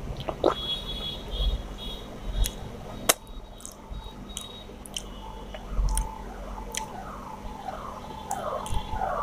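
Eating chicken and rice by hand from a steel plate: chewing, with a few sharp clicks of fingers and food against the steel. Near the end a repeated squeaky call starts, two or three times a second.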